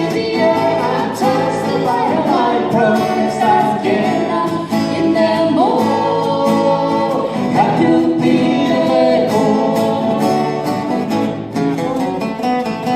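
A band playing live, with a lead voice singing over guitar accompaniment.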